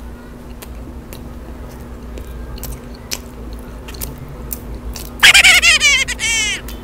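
Close-miked chewing with scattered wet mouth clicks. About five seconds in comes a loud, high, wavering hum from a full, closed mouth, lasting about a second and a half.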